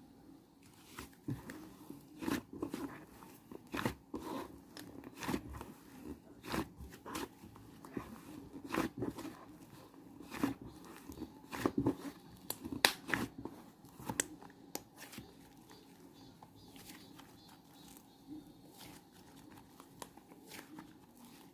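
Irregular crunching and crinkling clicks, some sharp, thinning out in the last third, over a faint steady hum.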